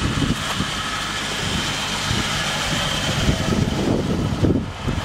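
Steady low rumble of an idling vehicle engine, with wind buffeting the microphone in irregular gusts.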